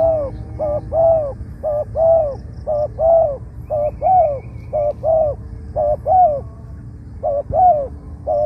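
Spotted dove cooing repeatedly: a short note then a longer, arched note, the pair repeating about once a second, with a brief pause about seven seconds in.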